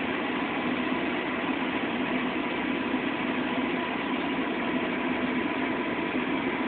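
Pickup truck engine running steadily, heard from inside the cab as an even hum.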